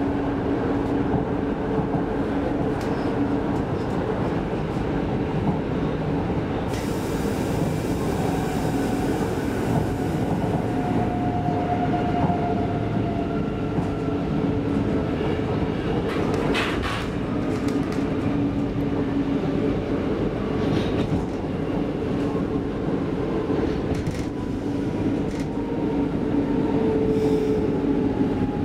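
Interior of a Stockholm X10 commuter train running along the track: a steady rumble of wheels and running gear with a humming tone. There is a short clatter over rail joints about halfway through, and a whine that slowly sinks in pitch in the second half.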